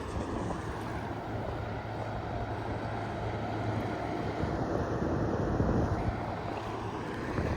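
Wind buffeting the microphone over the wash of river waves against the bank, with a steady low hum underneath that fades near the end.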